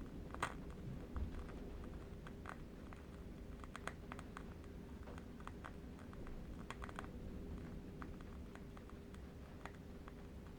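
Faint candle-wick crackle: small irregular clicks and pops at an uneven pace, over a low steady rumble of wind ambience.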